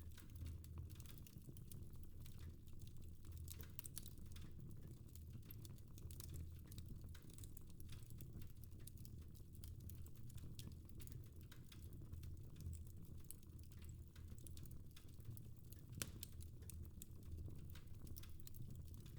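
Fireplace fire crackling quietly: scattered small pops and snaps, with one sharper pop about 16 seconds in, over a steady low hum.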